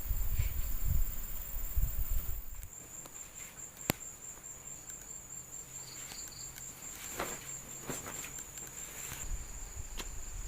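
Crickets chirring in a steady, high, unbroken drone. A low rumble runs through the first couple of seconds, and there is one sharp click about four seconds in.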